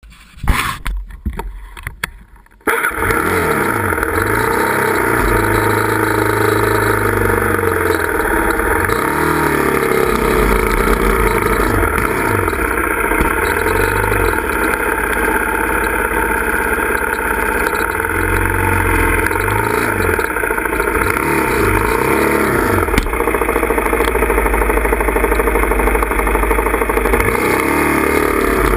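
A few knocks in the first couple of seconds, then a dirt bike's engine running hard, its revs rising and falling over and over as the bike climbs a steep, rocky trail.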